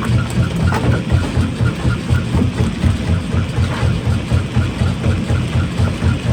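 Heavy rock-crushing plant machinery running steadily with a deep rhythmic throb, about three pulses a second, and a faint regular ticking in step with it.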